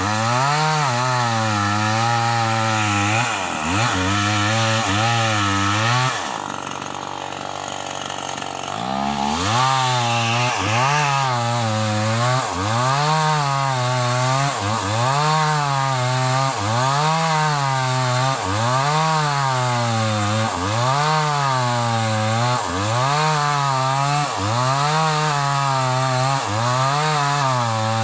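Sumura CS6500S two-stroke chainsaw cutting an old log at high revs, its engine pitch dropping and climbing back again and again, about once every second and a half, as the chain bites and clears. It sounds strained under the load. About six seconds in it eases off to a lower, quieter run for a few seconds, then goes back into the cut.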